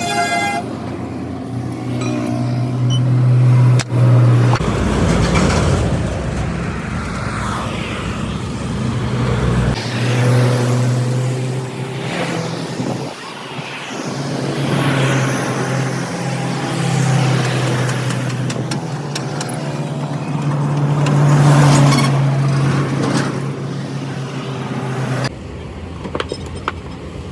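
Motor vehicle noise: a steady low engine hum with road traffic, changing abruptly a few times.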